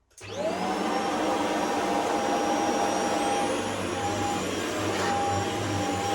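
Shark HZ500UK corded stick vacuum switched on: the motor spins up with a quickly rising whine, then runs steadily with a high whine over the rush of air.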